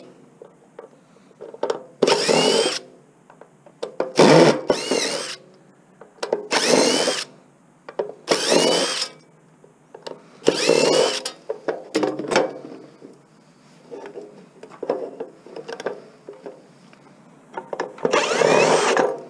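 Power drill/driver running in short bursts, each less than a second, about seven times, its whine rising and falling in pitch as it backs screws out of a projection TV's lens assembly. Small knocks of handling come between the bursts.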